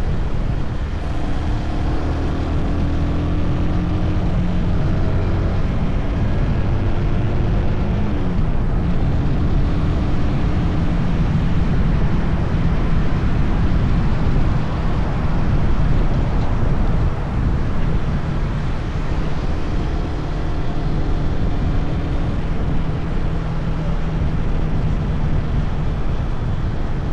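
Motorcycle engine running under way, with wind rushing over the microphone. The engine's pitch drifts and glides a little as the speed changes.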